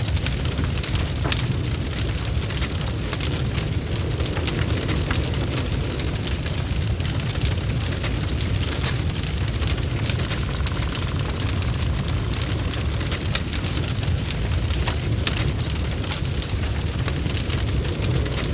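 Bonfire crackling: a steady low rumble of burning with many sharp pops and snaps throughout.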